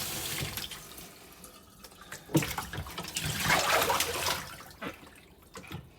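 Water from a kitchen sink tap running and dying away in the first second, then a few small knocks of parts against the sink and a brief rush of water in the middle.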